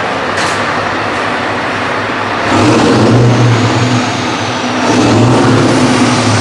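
Heavy truck diesel engines running as trucks drive slowly past, the engine sound swelling about two and a half seconds in and again near the end, with a faint high whine slowly falling in pitch.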